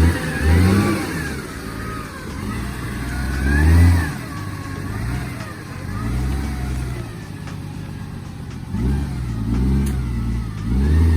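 Off-road vehicle's engine revving hard in repeated surges, the pitch climbing and dropping several times as it labours.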